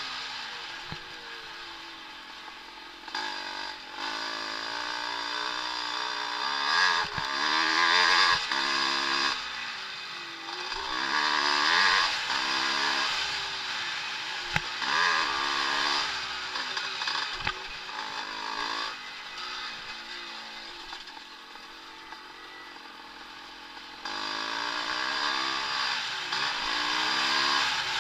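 Vintage motocross motorcycles racing, engines revving up and falling back again and again as the bikes accelerate, shift and pass, with several engines sounding at once. A few sharp knocks are heard among the engine noise.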